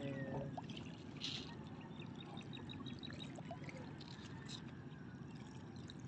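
Water trickling and lapping as a steady wash, with a short run of faint high ticks about two seconds in.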